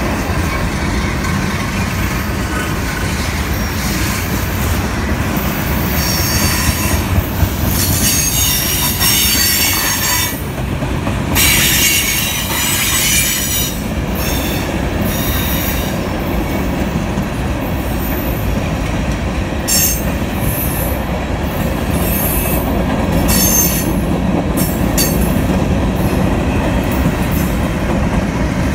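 Freight cars rolling past at close range: a steady rumble of steel wheels on rail, with high-pitched wheel squeal coming and going. The squeal is strongest from about six to fourteen seconds in, with short flashes of it later.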